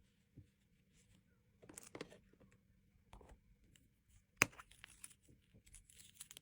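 Packaging being handled, with short bursts of crinkling and rustling and one sharp click about four and a half seconds in.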